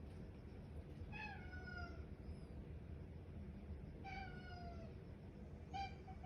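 Domestic cat meowing three times, each meow falling in pitch, the last starting near the end; a cat asking for its breakfast.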